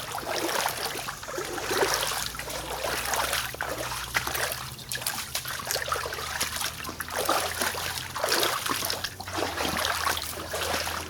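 Footsteps wading through flooded swamp water, a slosh and splash with each stride coming irregularly about once a second.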